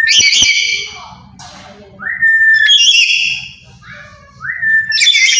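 Black-capped lory calling loudly three times. Each call is a short rising whistle that runs into a harsh, ringing screech, repeating about every two and a half seconds.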